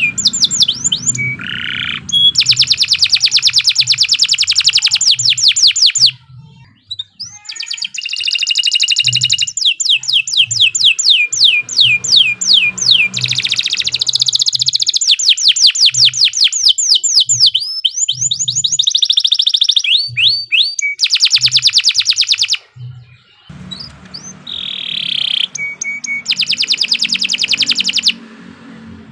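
Domestic canary singing a long song of rapid trills, each run a fast series of repeated whistled notes, broken by two short pauses about six and twenty-two seconds in.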